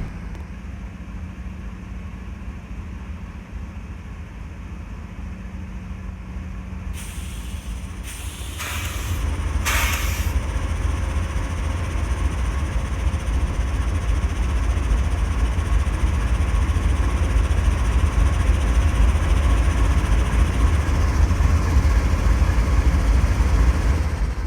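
Freight train rolling by: a quiet steady hum gives way, about eight seconds in after a few short hisses, to a louder steady rumble of cars on the rails that holds to the end.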